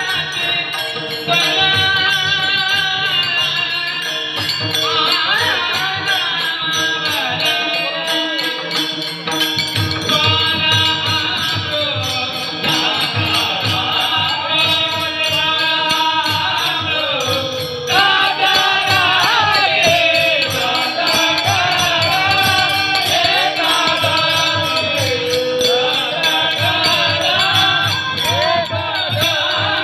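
Indian folk-devotional singing: a solo voice holds and bends long melodic phrases over a fast drum and jingling-cymbal accompaniment, the drum beats growing stronger about a third of the way through.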